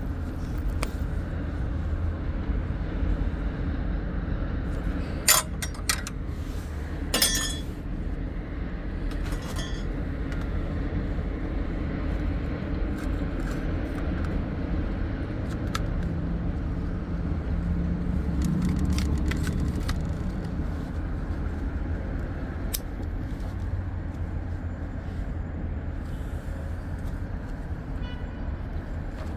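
Hand tools clicking and clinking against metal, with sharp snaps about five and seven seconds in and a lighter one near ten seconds, over a steady low machinery rumble.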